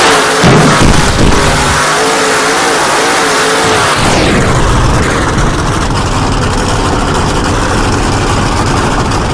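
Monster truck engine revving in rising and falling blips for the first few seconds, then running more steadily with dense, loud noise.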